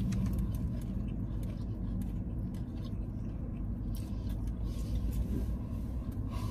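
Steady low rumble of a car idling, heard from inside the cabin, with faint chewing and mouth clicks over it.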